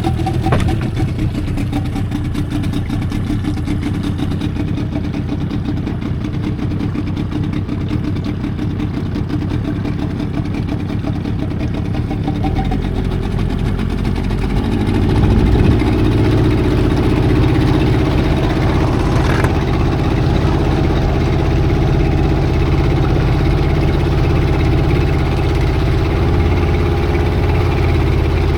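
An engine running steadily. About halfway through it speeds up over a couple of seconds, then holds at the higher, louder speed.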